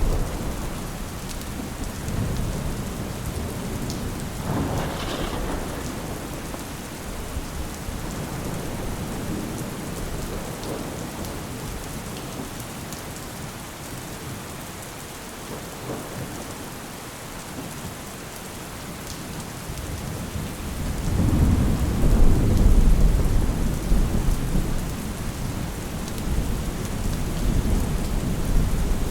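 Steady rain falling, with low rolls of thunder swelling and fading; the longest, loudest roll comes about two-thirds of the way through.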